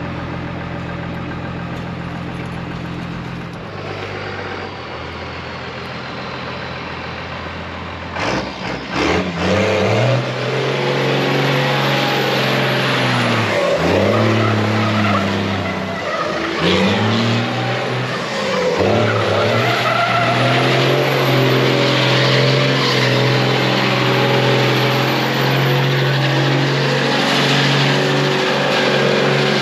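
Car engine running steadily, then revving up and down several times from about eight seconds in and held at high revs. Tyres spin and skid on wet pavement as the car does doughnuts.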